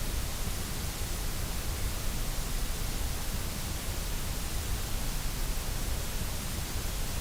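Steady, unchanging white noise: an even hiss with a low rumble beneath it.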